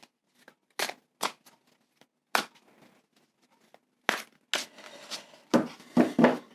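Tarot cards being shuffled and handled: a run of short, brisk riffling bursts, coming closer together and louder near the end.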